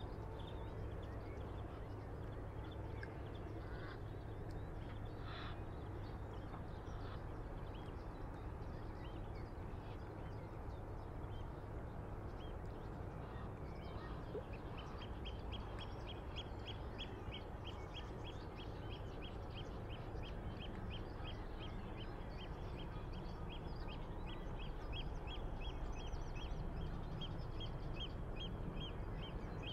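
Riverside ambience: a steady low rumble of water and light breeze, and from about halfway a water bird calling in a fast, even series of short, high notes, about three a second.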